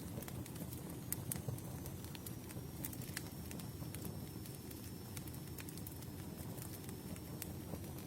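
Campfire burning: irregular sharp crackles and pops from the wood over a low steady rumble of the flames.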